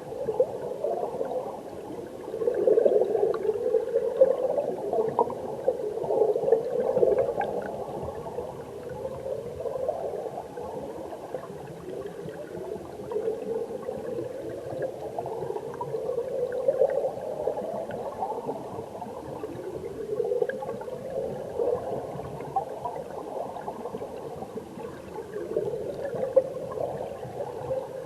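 Mountain stream current heard from underwater: a muffled, steady gurgling and churning of flowing water that swells and eases in slow surges every few seconds.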